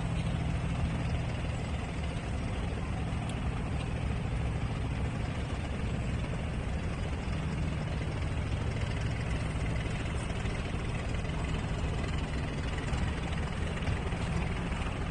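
A nearby engine idling with a steady low hum, over a background of outdoor traffic noise.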